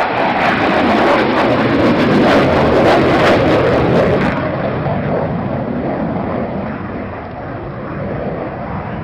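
Jet aircraft flying past with a loud, rushing noise that is at its loudest in the first few seconds and then slowly fades as it moves away.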